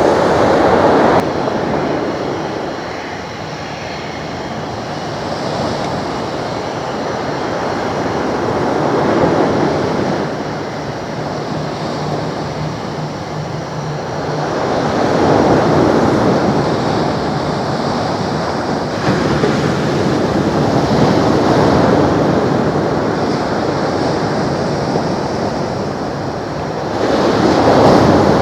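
Steady rushing of wind on the microphone mixed with surf, swelling and easing every few seconds.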